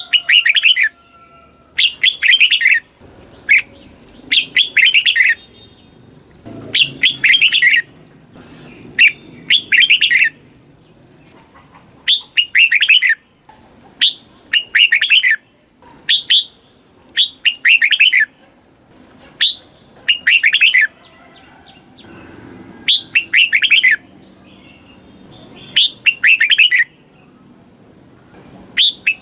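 Red-whiskered bulbul singing: short, rapid warbled phrases about a second long, repeated every two seconds or so.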